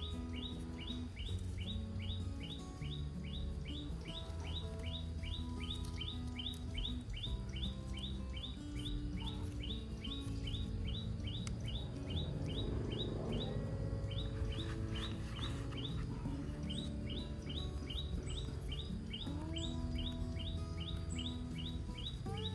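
A rapid, evenly repeated bird chirp, about four a second, that pauses briefly a little past halfway, over soft background music of sustained low notes.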